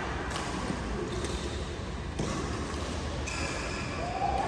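Badminton rally: a few sharp knocks of rackets hitting the shuttlecock over steady court background noise, the loudest about two seconds in.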